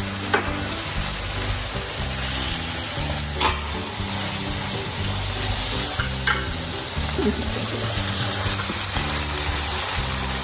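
Flaked tuna with garlic and red chilli sizzling in hot oil in a stainless steel wok, stirred with a nylon spatula that scrapes and taps the pan a few times.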